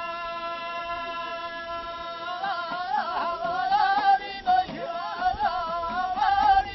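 A single voice singing an Ahidous chant, unaccompanied: one long held note, then from about two seconds in a wavering, ornamented melody.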